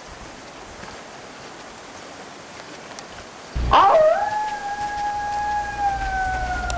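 A single long canine howl, like a wolf or dog, beginning about three and a half seconds in. It rises quickly into one held note that slowly sinks, over a steady low hum.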